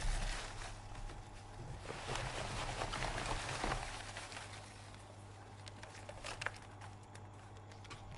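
Hands handling plastic toy parts and packaging: rustling with scattered small clicks, busiest in the first few seconds.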